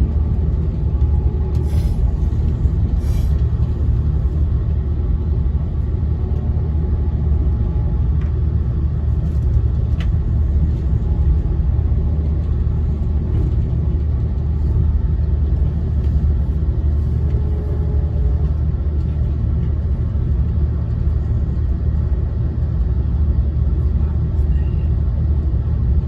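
Passenger train running at speed, heard from inside the coach: a steady low rumble with a few faint clicks.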